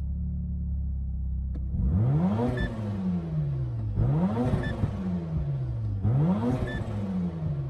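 Mazda FD RX-7's 13B twin-rotor rotary engine, with a TD06 turbo and a Dolphin muffler, idling steadily, then revved three times about two seconds apart. Each rev climbs quickly and then falls back more slowly toward idle.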